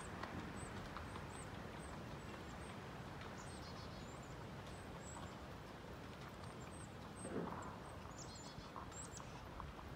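Faint, short high chirps of small birds repeating throughout, over a soft steady rustle, with a brief louder noise about seven seconds in.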